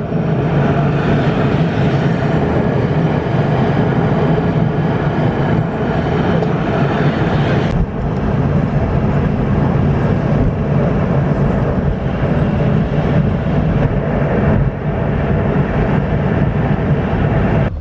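Steady vehicle running noise, a loud even rumble and hum, with two brief breaks where the footage is cut, about 8 and 15 seconds in.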